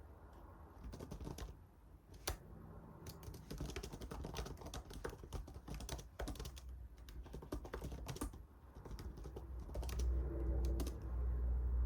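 Typing on a computer keyboard, with irregular key clicks. A louder low rumble comes in over the last two seconds.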